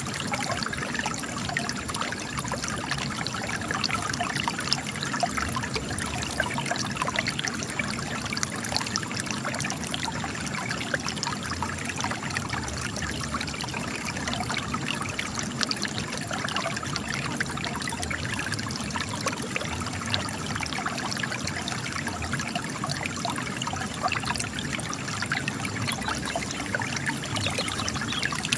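Spring water trickling and splashing steadily out of cracks in rock.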